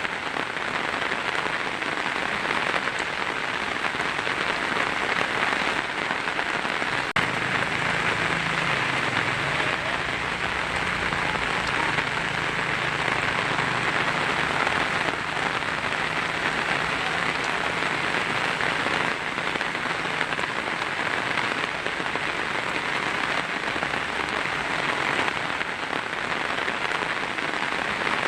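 Heavy rain drumming steadily on a tin roof. A faint low rumble of thunder sits underneath from about seven seconds in until about twenty.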